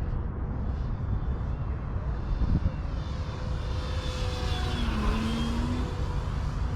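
AJ Aircraft Slick 540 electric RC plane flying, its E-flite 4250 brushless motor and 14x7 wooden propeller giving a thin whine whose pitch rises and then drops as it passes, about four to five seconds in. A constant low rumble runs underneath.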